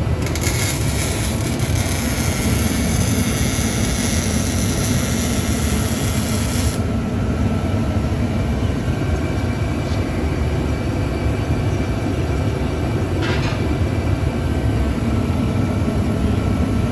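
Dodge Charger engine running with its muffler removed for a straight-pipe exhaust, a loud, steady, deep rumble.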